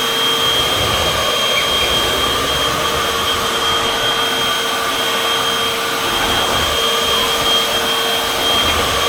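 Upright vacuum cleaner (model UH70605) running steadily: a constant motor whine with a high steady tone over rushing air.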